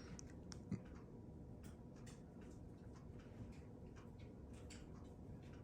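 Near silence: room tone with a few faint, irregularly spaced clicks, one slightly louder near the start.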